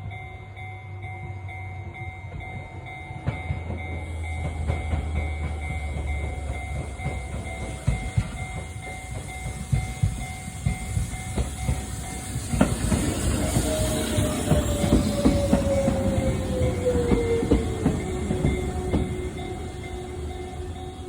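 Nishitetsu Kaizuka Line train passing over a level crossing, its wheels clacking in a run of thumps from about 8 seconds in, with a falling whine from the train from about 13 seconds in. Behind it the crossing's warning bell keeps ringing steadily.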